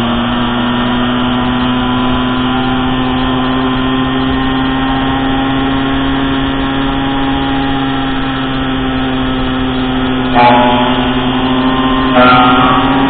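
Small motorbike engine running at a steady cruising speed, heard from on the bike along with wind and road noise. The engine note holds one pitch throughout and gets louder about ten seconds in, then again near the end.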